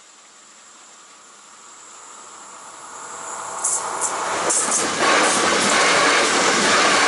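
České dráhy InterPanter electric multiple unit approaching and passing over a level crossing. Its running noise grows from faint to loud, with a few sharp clicks as it nears, and is loud and steady from about five seconds in as the carriages go by.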